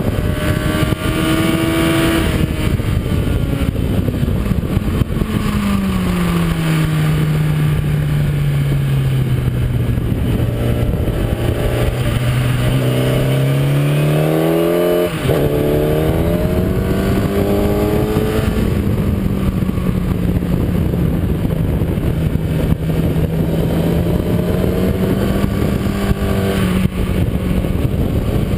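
Kawasaki ZX-10R inline-four engine heard onboard at track speed under heavy wind rush. Its note falls away over the first several seconds and stays low for a while, then climbs again. About halfway through there is a brief break in the note, as at a gear change, and after it the note holds fairly steady.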